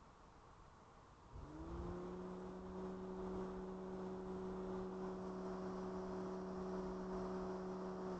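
A car engine starts about a second in, its pitch rising briefly, then settles into a steady idle.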